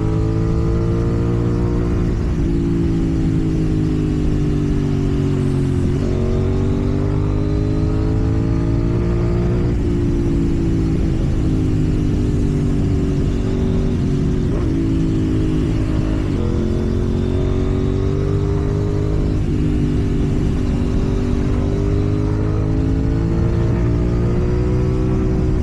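KTM Duke 790's parallel-twin engine under way, its pitch climbing slowly and dropping back several times as the rider rolls on and off the throttle and changes gear.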